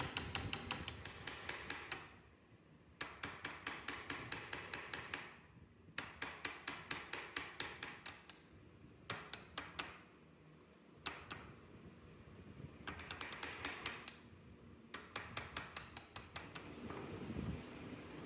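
Light, quick mallet taps on a carving chisel driving it into wood. They come several a second in runs of a second or two, with short pauses between runs.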